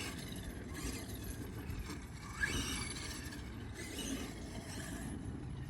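Losi Promoto-MX RC motorcycle's electric drive whining up in pitch in short bursts as it is throttled, over a steady low rumble of wind on the microphone.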